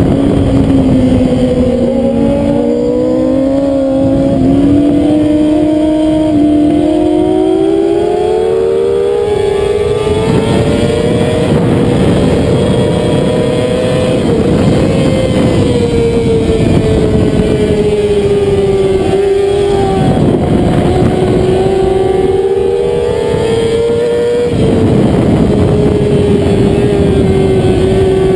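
Middleweight racing sportbike's engine running hard at high revs under the rider. Its note climbs slowly and falls back with throttle and gear changes, dipping briefly a few times.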